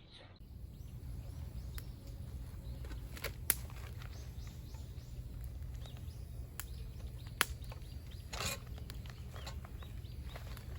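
Outdoor ambience: a steady low rumble with faint bird chirps, broken by a few sharp snaps or clicks, the loudest about three and a half and seven seconds in.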